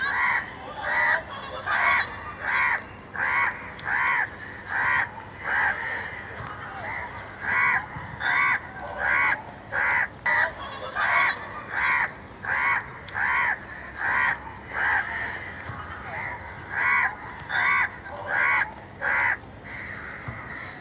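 Crow cawing over and over, a long run of short calls at about one and a half a second, stopping shortly before the end.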